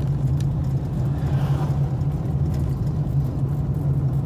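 A car's engine and tyres giving a steady low hum while driving.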